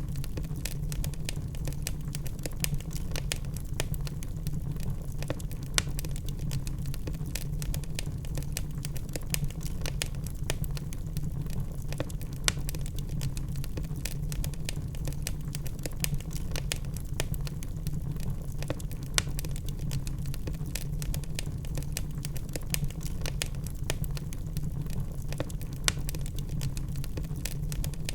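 Wood fire burning in a fireplace, crackling with many small irregular snaps and a few louder pops over a low steady rumble.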